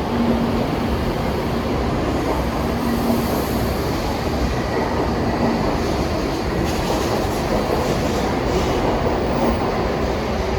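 Shinkansen train moving along the platform: a steady rumble of wheels and running gear with a faint hum, and a run of faint clicks past the middle.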